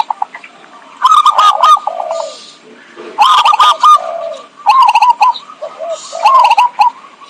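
Zebra dove (perkutut) cooing: about four phrases of quick, staccato cooing notes, repeated with short pauses between them.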